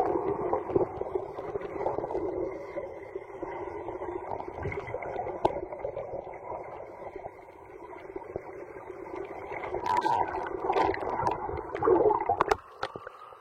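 Muffled underwater sound of a swimming pool: water moving and bubbling around a submerged microphone, with a couple of louder splashy surges near the end.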